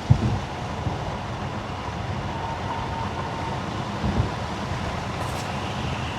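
Car driving on a wet winter road: steady tyre and road noise, with a low thump just after the start and another about four seconds in.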